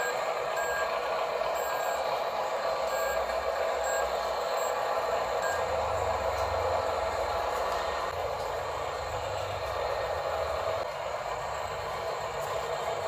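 Radio-controlled toy dump truck's electric motor and gearbox whirring steadily, with its reversing beeper giving a series of short high beeps through the first few seconds.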